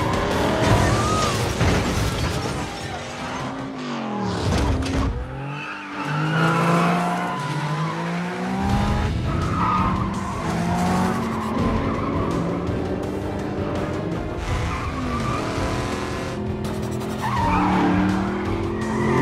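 Movie car-chase soundtrack: several car engines revving hard and climbing through gear changes, with tyres squealing and an action music score underneath.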